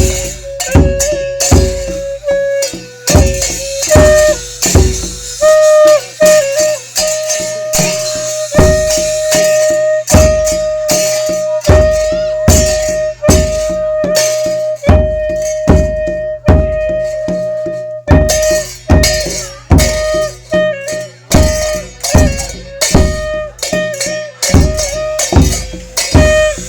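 Thai folk ensemble music: a drum beating a steady pulse, cymbals crashing along with it, and a sanai horn holding long, steady notes over them.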